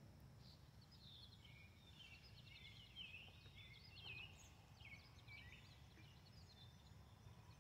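Birds calling faintly: a busy run of short, quick, high-pitched chirps that rise and fall, over a low background hum.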